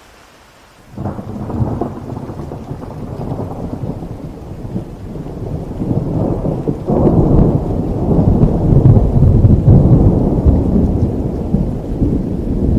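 Thunderstorm: a steady hiss of rain, then about a second in a long rolling thunderclap starts suddenly and keeps building, with a second, louder surge around seven seconds in, still rumbling at the end.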